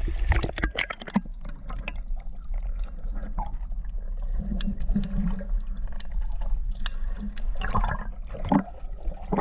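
Sea water sloshing and splashing close to the microphone, with many short irregular splashes over a steady low rumble.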